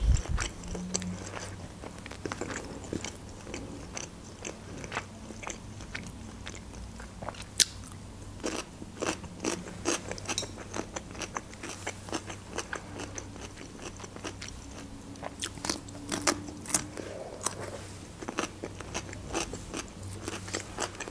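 Close-miked chewing of crispy fried cheburek pastry: irregular crisp crunches and wet mouth sounds, with a few sharper crunches about seven seconds in and again around fifteen to seventeen seconds.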